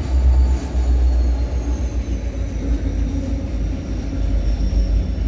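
Freight train rolling past: a steady, loud low rumble of the cars on the rails, with a faint high whine that slowly falls in pitch.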